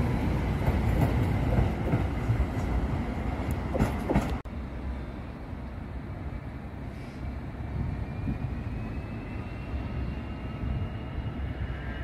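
A Class 701 Arterio electric multiple unit moving at the platform, a dense rumble with a few sharp clicks, until the sound cuts off abruptly about four seconds in. After that there is a quieter background hum, and in the second half a faint high tone that slowly rises in pitch.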